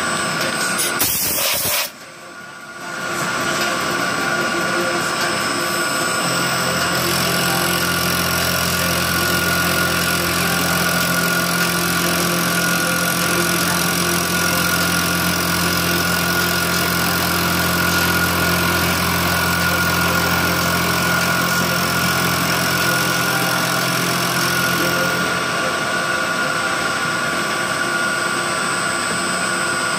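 CNC milling machine running steadily with a constant whine. A deeper hum joins it about six seconds in and drops out near the end.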